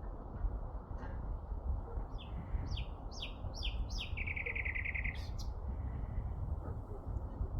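A small songbird sings one phrase: a run of quick descending chirps, then a fast trill lasting about a second. Under it runs a steady low rumble of city background noise.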